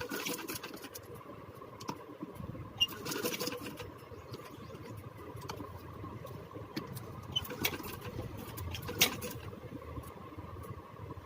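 Electric sewing machine stitching strips of blouse fabric, its motor giving a steady low hum, with several short clattering bursts.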